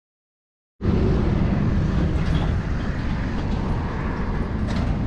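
Motorcycle running, with heavy wind rumble on the microphone, cutting in abruptly out of dead silence about a second in.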